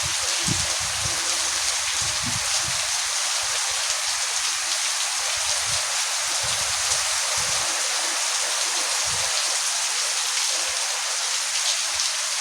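Heavy rain falling steadily: a dense, even hiss of drops that keeps up without a break.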